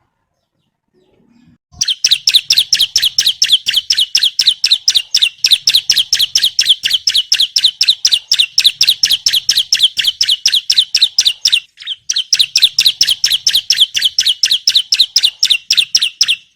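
Bar-winged prinia (ciblek) calling in a fast, even run of sharp, falling notes, about five a second. The run starts after a short silence and breaks off briefly near the end.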